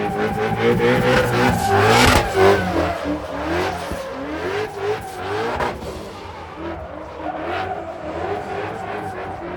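Drift car's engine revving up again and again in short rising sweeps while its tires squeal and skid. Loudest about two seconds in, easing off somewhat later.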